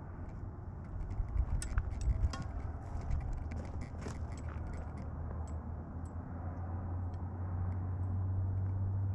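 Small metal bells jingling in scattered clicks, thickest over the first five seconds, over a steady low rumble that grows louder near the end.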